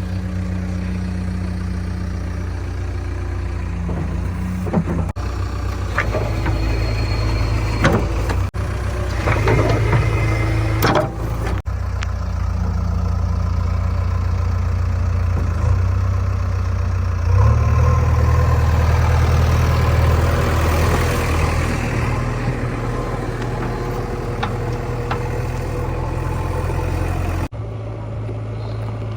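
Diesel engine of a JCB 3DX backhoe loader running steadily at working revs, with a few short knocks. Partway through it revs up for several seconds before settling back.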